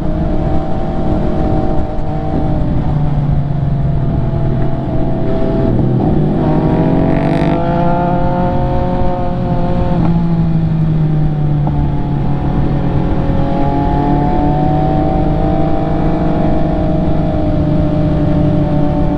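MV Agusta F3 three-cylinder engine pulling on the road, heard from on board. The engine note holds steady, climbs as the bike accelerates from about six seconds in, then settles to a steady cruise with small dips in pitch.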